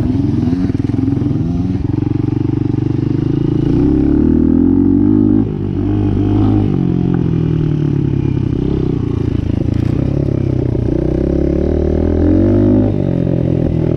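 Dirt bike engine running under way, its pitch climbing and falling over and over as the rider opens and closes the throttle and shifts gears, with a short drop-off about five and a half seconds in.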